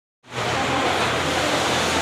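A steady rushing noise, like hiss or distant wind, coming in abruptly a quarter second in and holding even.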